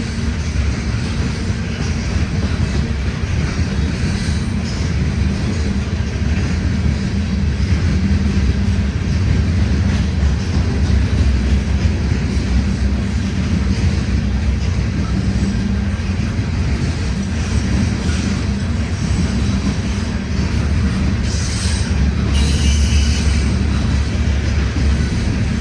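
CN freight train rolling past: a steady, loud rumble of railcars with wheel noise on the rails, and a brighter burst of high wheel noise about 21 seconds in.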